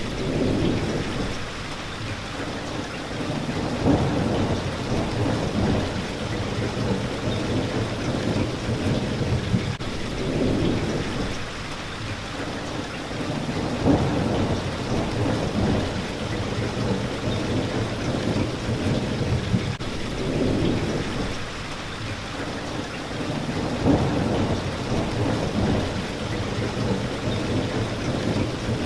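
Steady rain hitting a window, under low rumbles of thunder that swell and fade every few seconds, with three sharper peaks about ten seconds apart.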